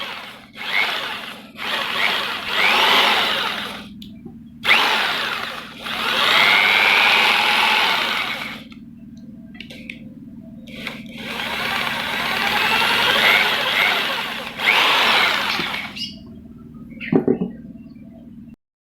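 Electric jigsaw motor run in repeated bursts lasting from about a second to a few seconds, spinning up and winding down each time, over a steady low hum.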